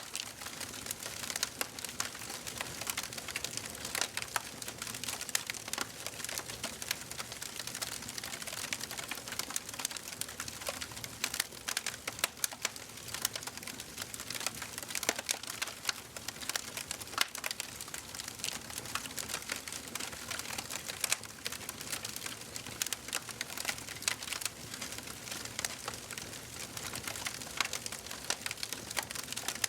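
Wood fire crackling steadily in a fireplace: a soft hiss of flames with a continual scatter of sharp, irregular pops and snaps.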